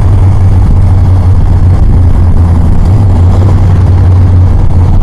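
Yamaha FJR1300's inline-four engine running at a steady cruise, a loud, even low hum under the rush of riding in traffic.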